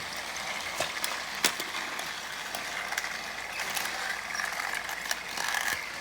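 Battery-powered TrackMaster toy trains running on plastic track: a steady whirring of their small geared motors, with a few sharp clicks along the way.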